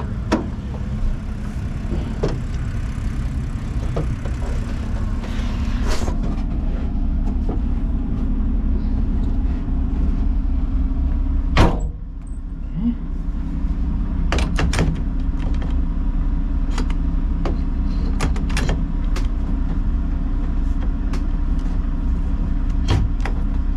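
Race car engine idling steadily, with scattered clicks and knocks and one loud clunk about halfway through.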